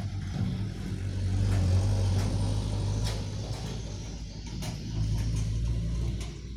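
Laterite-hauling truck driving past on a dusty road: a low engine hum that grows louder about two seconds in and swells again around five seconds.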